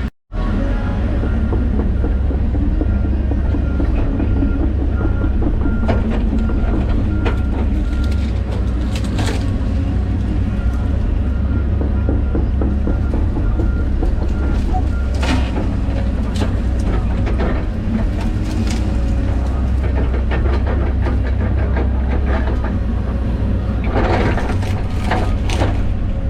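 John Deere 130G excavator running steadily with a low engine drone and a thin whine, with scattered clanks and knocks from the machine at work.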